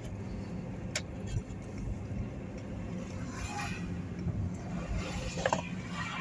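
A steady low hum runs throughout, with a sharp click about a second in and brief rustling clatter about three and a half and five and a half seconds in.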